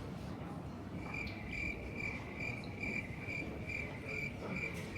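An electronic beeper sounding a high, even beep about twice a second. It starts about a second in, over a low background rumble.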